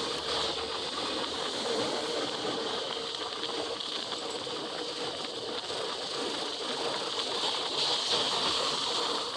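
Steady rush of wind and wet-road hiss from a motorcycle riding at speed on a rain-soaked highway.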